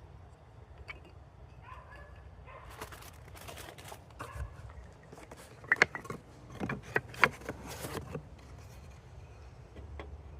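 Handling noises: a run of clicks, knocks and clatters, loudest about six to seven seconds in.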